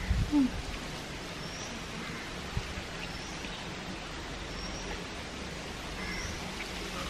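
Steady outdoor background hiss with a small bird repeating a short high chirp every second or two. A brief low knock sounds just after the start.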